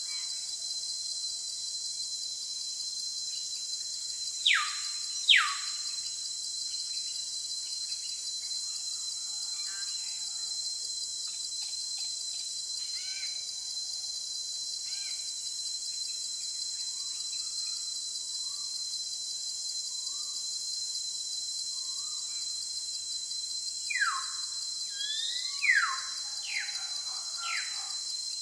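Bird calls over a steady high hiss: two loud calls sweeping sharply downward about five seconds in, softer scattered chirps after them, and another run of downward-sweeping calls near the end.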